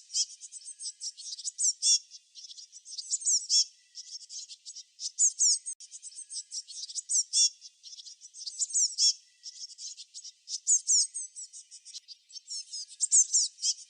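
Small songbirds singing: high, rapid chirps and down-slurred whistled notes in short bursts about every two seconds.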